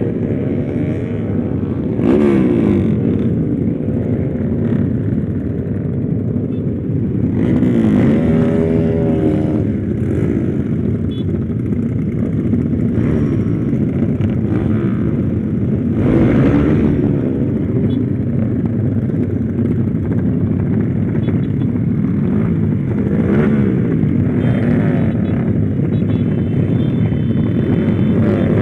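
Motorcycle engine, freshly rebuilt, revving up and down while riding: its pitch rises and falls in several sweeps over a steady rumble.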